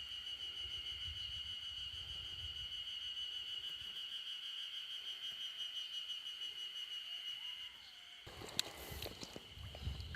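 Cicadas singing in a steady, high, continuous buzz that stops about eight seconds in, followed by a sharp click near the end.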